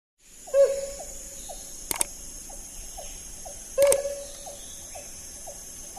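A hornbill calling: a loud hoot about half a second in and again near four seconds, each followed by a run of short, evenly spaced notes, about two or three a second. A sharp double click near two seconds.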